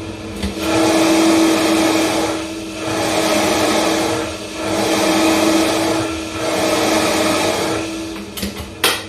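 Vitamix blender crushing a full jar of big ice cubes at high speed, its loudness swelling and falling four times as the ice churns. A few sharp clicks come near the end.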